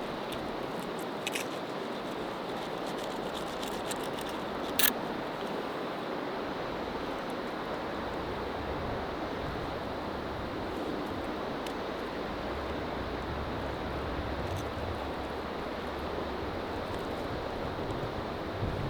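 Steady rush of wind and waves on open water, with a low wind rumble on the microphone in the second half and a single sharp click about five seconds in.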